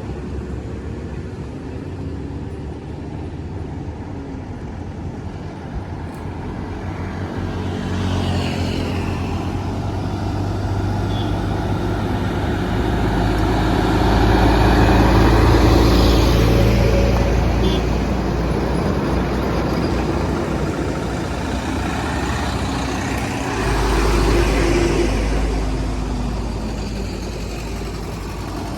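Highway traffic of large trucks: engines running steadily, with the noise swelling as vehicles pass close, loudest about halfway through and again about three-quarters in.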